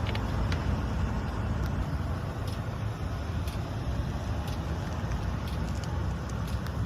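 UD Trucks Quon tractor's turbocharged GH13 diesel engine idling with a steady low rumble, with a few faint ticks over it.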